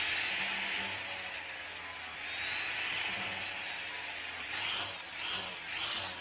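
120-grit flap wheel on a 6-inch variable-speed grinder running against a stainless steel flat bar, a steady abrasive grinding hiss as it is drawn along the bar to straighten the grain. It starts abruptly.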